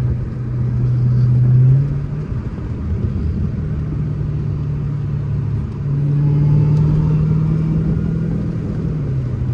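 Car engine droning under way, with road rumble. The engine note steps up and down in pitch a few times as the car speeds up and eases off.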